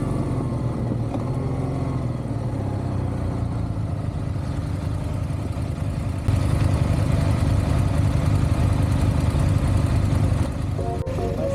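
Motorcycle engine running while riding, with road and wind noise; it gets louder for a few seconds past the middle, then eases back.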